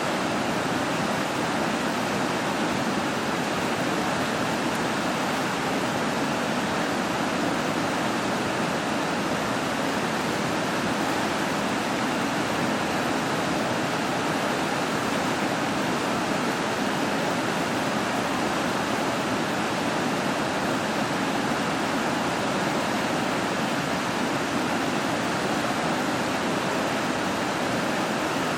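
Steady, even rushing noise with no pitch or rhythm in it.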